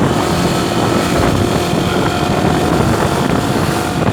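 Vehicle engine running steadily under way, with wind rushing over the microphone.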